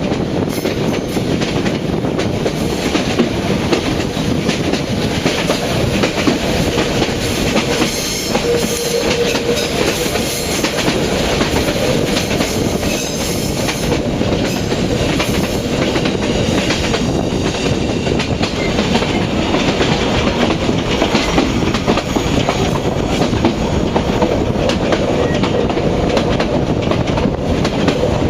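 Passenger train on Vietnam's North–South railway running along the track, a steady loud rumble with the clickety-clack of wheels over rail joints.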